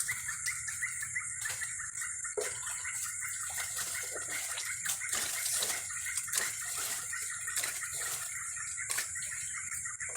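Dusk chorus of insects: a steady shrill hum high up and a fast, continuous chirping lower down, with scattered ticks and clicks.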